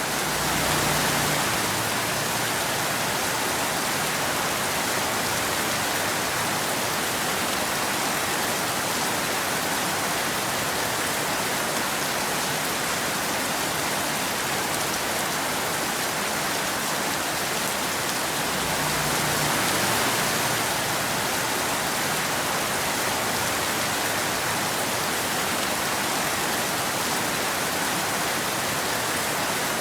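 Steady rain falling on a road, an even hiss. A brief low swell comes about a second in and again some twenty seconds in.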